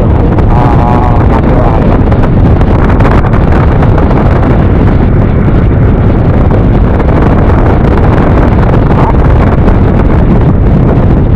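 Steady wind noise on the microphone of a rider on a moving scooter, with the engine and road noise running underneath.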